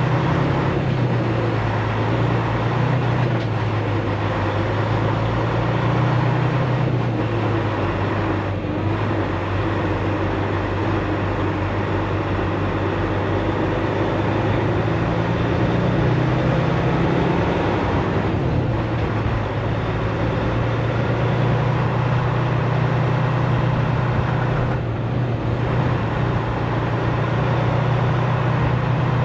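Semi-truck's diesel engine running steadily under road noise while the truck is driven, its low hum drifting slightly up and down in pitch now and then.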